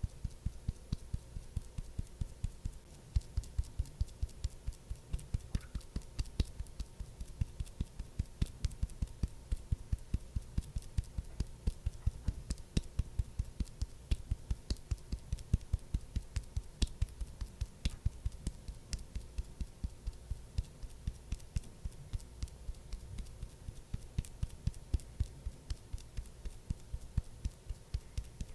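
Steady, even patting taps, about three a second, of the kind a makeup puff makes when dabbed during skincare ASMR.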